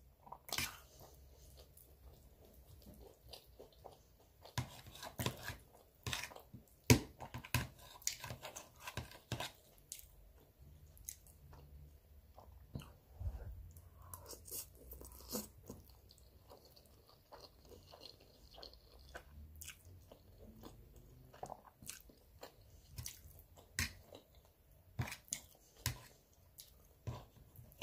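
Close-up chewing and biting of spaghetti and bread, with scattered small wet mouth clicks and smacks at an irregular pace.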